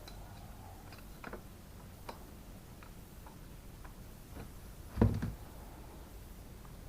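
Scattered light metal clicks and ticks from tightening the bolts of a clamp band on an air-gun barrel and tube, with one louder knock about five seconds in.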